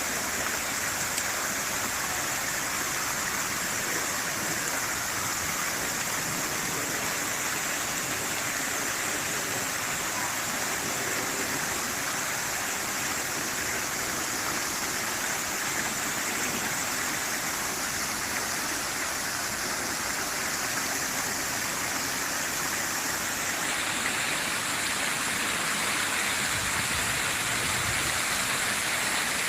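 Fountain water splashing and falling in a steady rush, brightening a little in tone about three quarters of the way through.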